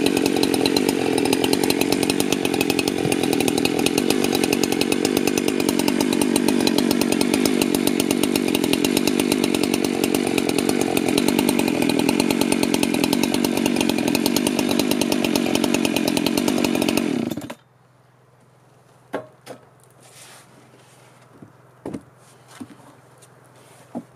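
Handheld power tool running steadily against wood, then switched off suddenly about three-quarters of the way through, followed by a few light knocks.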